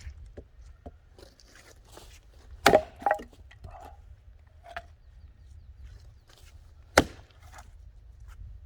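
Axe blows splitting firewood logs: a heavy sharp crack about two and a half seconds in, followed by a few lighter wooden knocks, then a second sharp axe strike about four seconds later.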